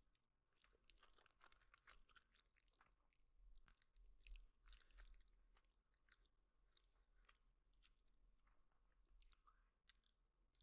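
Faint chewing of noodles, close to the microphone: a steady run of soft wet mouth smacks and small clicks.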